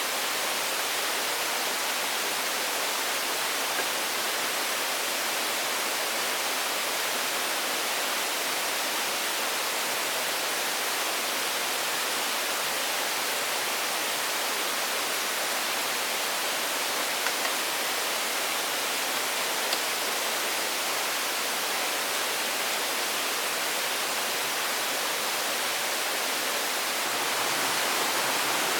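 A steady, even rushing hiss with no rhythm or change in level, like falling rain or running water, with a couple of faint ticks past the middle.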